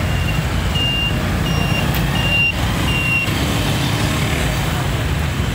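Motorcycle engine running steadily, with a high electronic beep repeating about every 0.7 seconds that stops about three seconds in.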